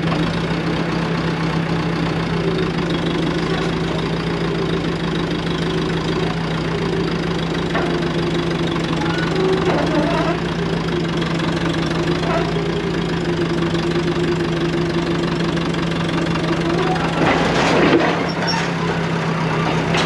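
John Deere 450 crawler dozer's diesel engine running, its pitch wavering up and down, with a few short clanks around the middle and a louder clatter near the end.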